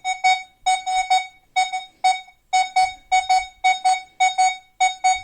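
Nokta Makro Legend metal detector giving its target signal on tone setting 2: a run of short beeps at one steady mid pitch, mostly in quick pairs, as a coin is passed back and forth over the search coil.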